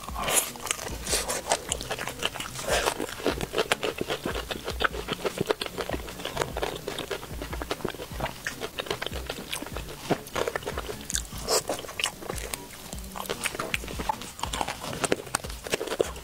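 Close-miked biting, crunching and chewing of crispy crumb-coated fried chicken: many sharp crackling crunches with wet chewing between them.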